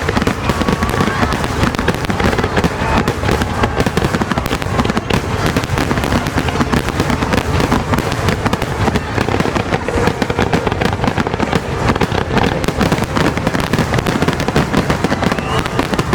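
Fireworks going off in a dense, continuous barrage: rapid overlapping bangs and crackling with no pause.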